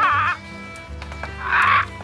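Two short bleats over steady background music: a wavering call that ends just after the start, and a shorter, rougher one about a second and a half in.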